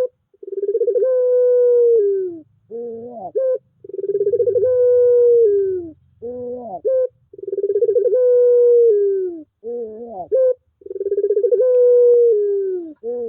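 Puter pelung, a long-calling breed of ringneck dove, cooing over and over. Each call is a long drawn-out low note that sags at the end, followed by a short twisting coo, repeated about every three and a half seconds.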